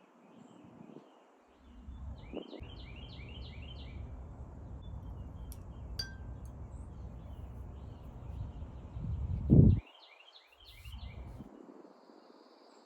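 Background birdsong: a bird sings a quick run of five or six falling chirps twice, about two seconds in and again near the nine-second mark, over a low steady rumble. About halfway through there is a short ping, and shortly after the second run a loud thump.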